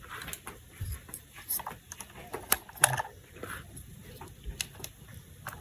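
Plastic toy parts handled by hand: irregular small clicks and taps, with brief rustling now and then.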